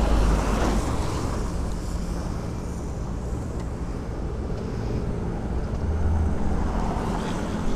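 Yamaha RX-King two-stroke motorcycle running at low, steady revs through an aftermarket exhaust, with wind rumbling on the microphone.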